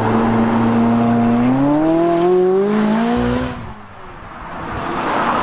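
McLaren 570GT's twin-turbo V8 accelerating hard: its note holds steady, then climbs in pitch for about two seconds before dropping away sharply about three and a half seconds in, followed by a rising rush of engine and road noise.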